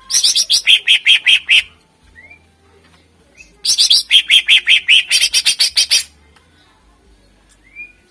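Greater green leafbird (cucak ijo) singing: two loud bursts of fast, evenly repeated shrill notes at about seven a second, separated by a couple of faint short rising whistles.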